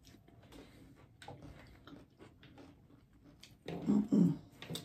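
Close-miked chewing, with small wet mouth clicks and crunches. About four seconds in comes a brief low vocal hum in two parts.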